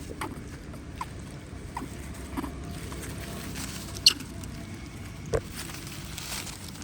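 Monkeys moving about: scattered light taps and rustles, a short high squeak about four seconds in, and a sharp knock about a second later.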